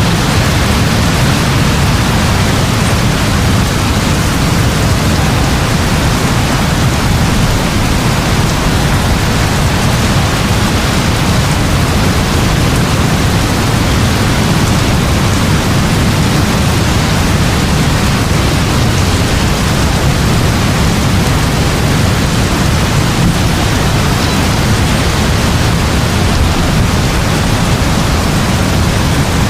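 Heavy rain falling steadily, an even hiss with a constant deep rumble underneath.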